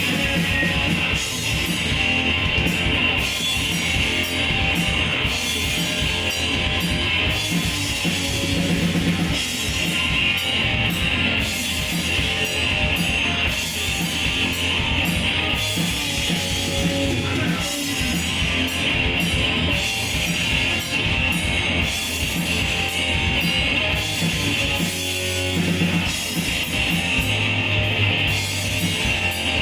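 Loud rock music, with guitar and a drum kit, playing steadily without a break.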